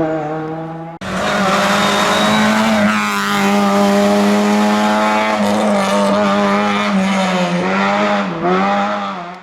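Rally car engine at high revs, held hard with brief dips in pitch at gear changes or throttle lifts. A sudden cut about a second in switches to another loud pass.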